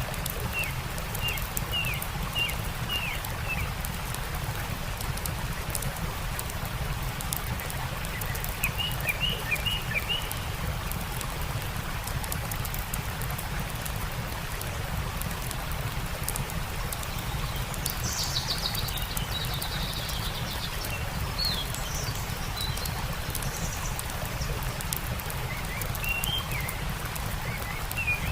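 Steady rush of a flowing stream with small birds chirping in short runs, including a quick high trill about two-thirds of the way through, over light, sharp crackles of a campfire.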